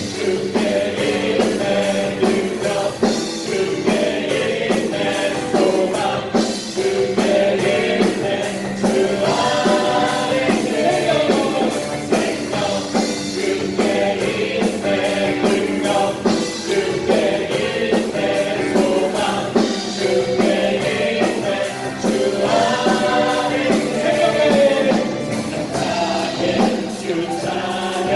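A worship band and group of singers performing a Korean praise song, voices singing together over a full band with drums.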